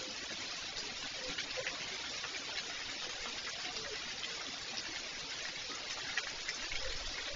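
Steady rain falling hard, an even hiss with scattered small drip taps. A low rumble comes in near the end.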